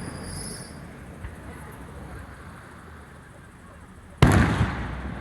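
A firework going off with a single loud bang about four seconds in, its boom trailing off over half a second. Before it there is only a low murmur of background sound.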